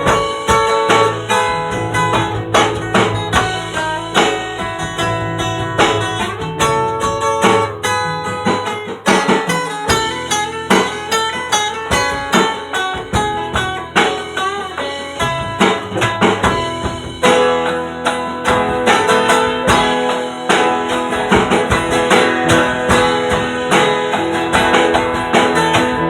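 Instrumental break of a folk rock song played by a small band: guitar to the fore over bass and drums, with a steady beat.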